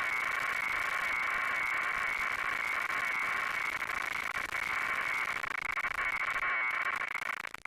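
Helicopter rotor noise heard thin and tinny, with a fast, even pulsing. It drops out briefly just before the end.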